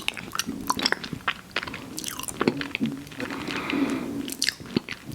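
Close-miked chewing and biting of an ice cream sandwich: many short wet mouth clicks and crunches.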